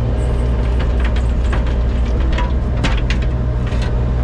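Engine of a compact earthmoving machine running steadily with a low drone, with scattered light clicks and knocks over it.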